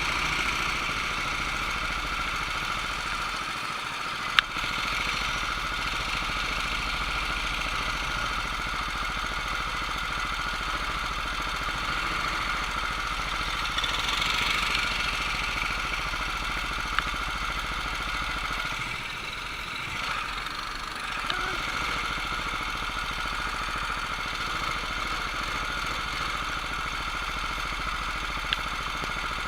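Steady engine-like mechanical drone that holds one pitch throughout, swelling briefly about halfway through and dipping a little later, with a few single sharp clicks.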